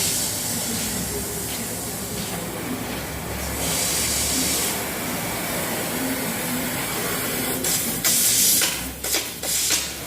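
Steady hiss of propane flowing into a homemade scrap-steel cannon as its chamber is filled, with louder surges about four seconds in and again near the end.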